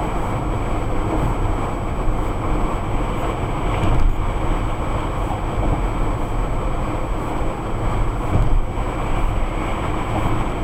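Steady road and tyre noise with engine hum, heard from inside a car driving at freeway speed, plus a thin steady high-pitched tone.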